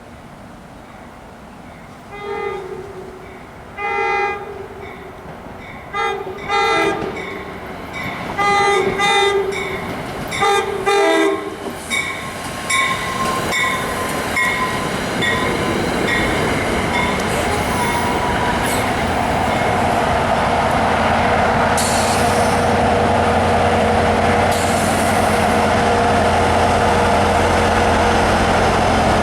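Locomotive air horn sounding a series of blasts on approach, then the train passing close by, its rumble and wheel noise building to a loud steady roar with faint wheel squeal.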